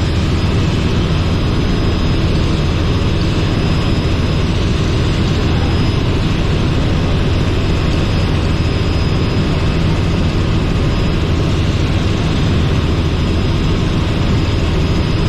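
Robinson R44 helicopter's piston engine and rotors running steadily, a loud, even drone with a faint high whine above it.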